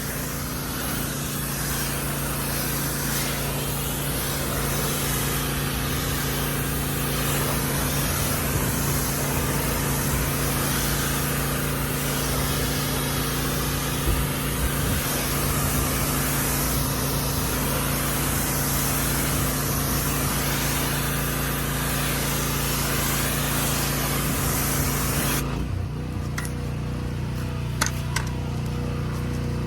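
Water spraying with a steady hiss over an engine running steadily, during a truck wash. The spray cuts off suddenly near the end, leaving the engine running and a couple of sharp clicks.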